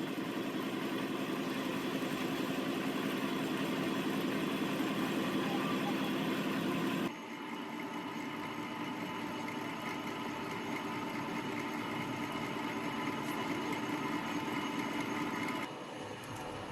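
A workshop machine running steadily. The sound changes abruptly about seven seconds in and again near the end, becoming quieter after the first change.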